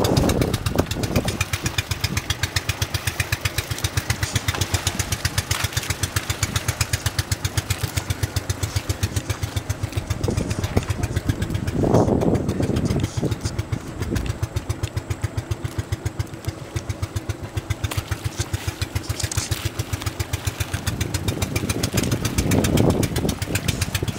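Motorboat engine running steadily, a rapid, even chug of firing pulses, with two louder surges of noise about halfway through and near the end.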